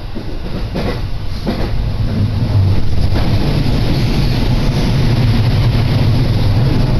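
Running noise heard from inside a moving commuter electric train, with a few sharp rail-joint clacks in the first two seconds. A low rumble swells about two seconds in and stays loud as another train passes close alongside.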